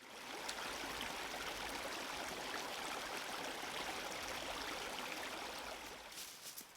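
Clear shallow stream running steadily over stones. Near the end the water sound drops away and a few sharp clicks come in.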